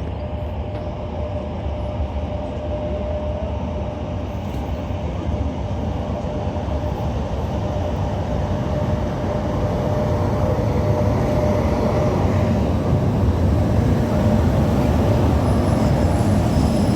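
Passenger train running along the track, heard from inside the carriage: a steady rumble of wheels on rails that grows gradually louder. A thin high whine joins near the end.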